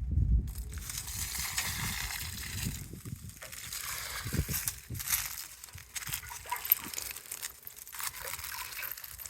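Water poured onto the soil around a freshly planted sapling, an uneven splashing hiss that surges and eases, after a low bump at the start.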